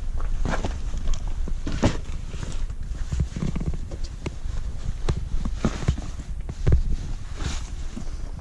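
Footsteps and scattered knocks and clunks of someone climbing into a tractor, over a steady low rumble.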